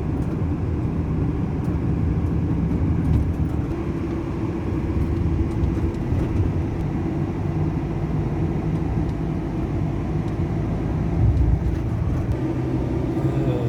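Car driving along a road, heard from inside the cabin: a steady low rumble of engine and tyres with a faint steady hum.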